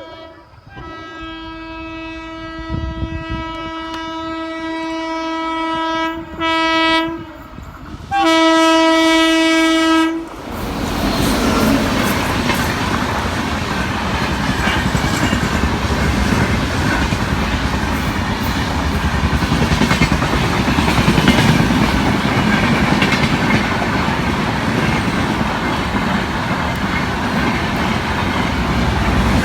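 Indian Railways train sounding a one-note horn: a long blast that grows louder as it approaches, then a short blast and a loud one of about two seconds. From about ten seconds in, the train passes at speed with a loud, steady rush and rattle of wheels and coaches.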